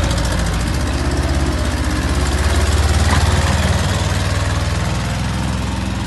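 Bobcat S130 skid steer's diesel engine running steadily, with a fast, even clatter.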